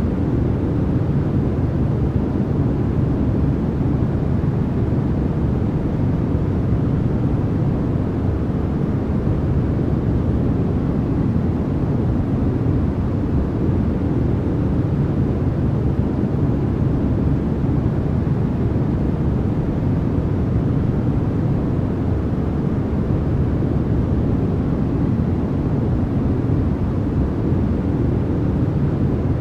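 Continuous synthetic noise of the kind sold as white noise for sleep, steady and unchanging, with most of its weight in the low range so it comes across as a deep, even hiss rather than a bright one.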